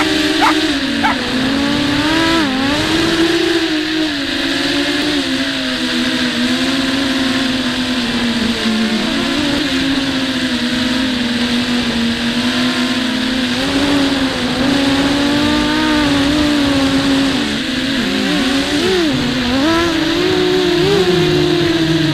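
WarpQuad 200 quadcopter's four small brushless motors (RCX 1306 2300kV with 5030 props) whining in flight, their pitch constantly rising and falling as the throttle changes, with a steady rushing noise beneath. Heard from a camera mounted on the quad itself.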